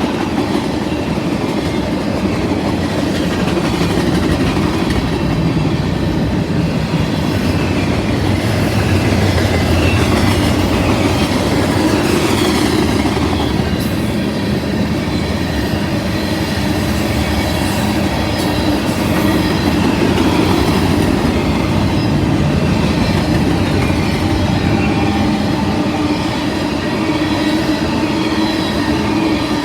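Mixed freight train rolling past: a steady rumble of freight cars, wheels clattering over the rails, with a faint wheel squeal.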